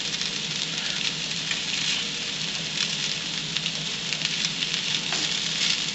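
Breaded morel mushrooms pan-frying in a skillet: a steady sizzle with fine crackling.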